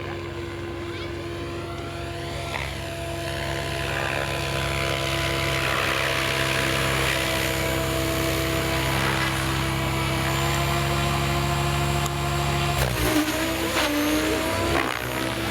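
Radio-controlled model helicopter flying: a steady whine from its rotor and motor, which shifts and glides in pitch about 13 seconds in.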